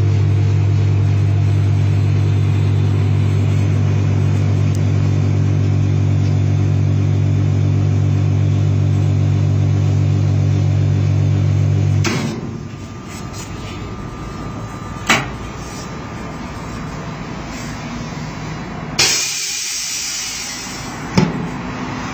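Single-chamber vacuum packing machine running a cycle: its vacuum pump hums steadily and cuts off suddenly about twelve seconds in. A click follows, then about a second of loud hissing as air is let back into the chamber, and a knock near the end.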